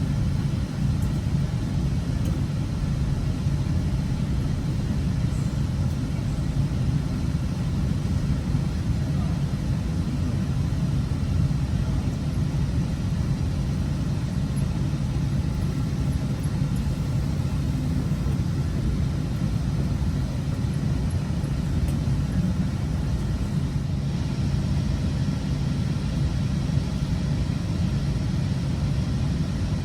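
Interior ride noise of a GO Transit bilevel commuter coach running between stations: a steady low rumble of wheels on rail with a constant low hum.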